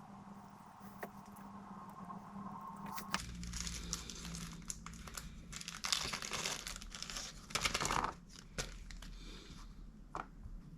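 Crinkling and rustling of something being handled, in several noisy stretches from about three seconds in until about eight seconds in, with a few light clicks.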